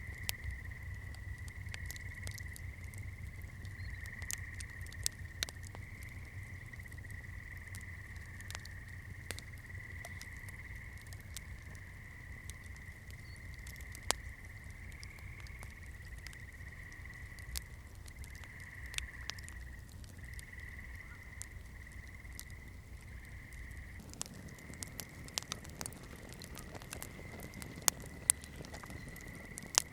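Campfire crackling: irregular sharp pops and snaps over a low steady rumble, with a few louder pops near the end. A steady, slightly wavering high-pitched drone runs underneath throughout.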